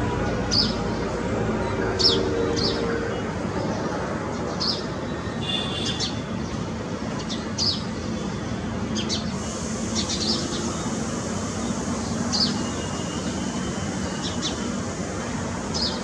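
Small birds chirping: short, high chirps repeating every second or two over a steady low background rumble.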